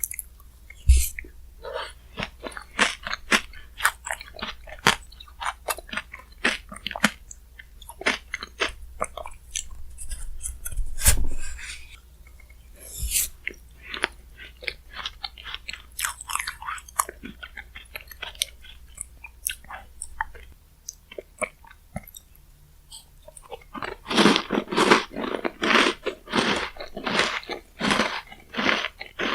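Close-up chewing and crunching of a mouthful of shaved-ice bingsu with Chic Choc chocolate-chip cookie pieces: many small crisp crunches. The crunching grows louder and denser about three-quarters of the way through.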